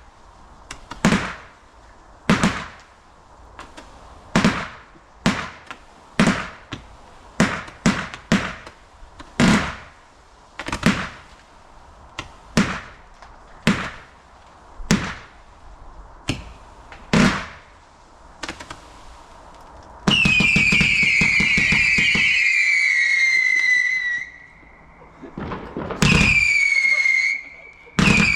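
Fireworks going off: a string of sharp bangs about one a second, then, about twenty seconds in, a loud whistle falling in pitch for some four seconds, followed by two shorter falling whistles near the end.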